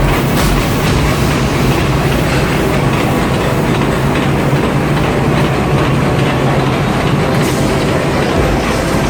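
Heavy machinery running with a steady low rumble and clatter.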